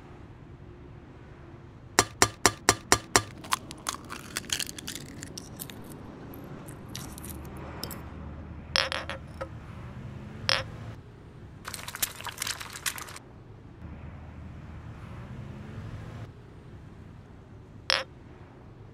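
A drinking glass being handled: a quick run of about seven sharp taps about two seconds in, then scattered clinks, knocks and short scrapes, and one sharp knock near the end as the glass is set down on a wooden table.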